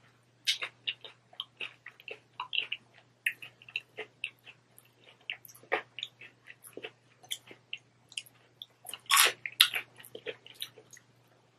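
Close-up chewing of a crunchy hard-shell taco: many small, irregular crunches, with a louder burst of crunching about nine seconds in.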